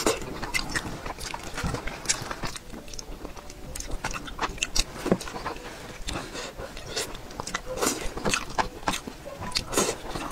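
A person chewing a mouthful of braised fish, with many short, sharp, irregular mouth clicks.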